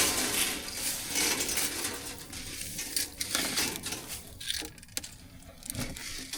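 Dry shelled corn kernels pattering and rattling, a dense rush at first that thins out into scattered clicks of single kernels.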